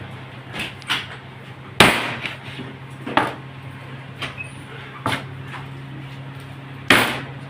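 Irregular sharp knocks and clatters of cookware and food-preparation work, about seven in all, the loudest about two seconds in and near the end, over a steady low hum.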